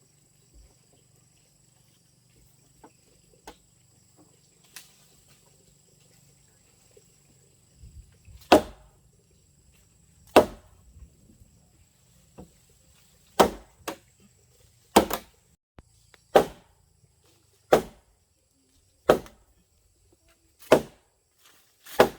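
A tool striking wood over and over with sharp blows. There are a few faint knocks at first, then from about eight seconds in a hard strike comes roughly every second and a half.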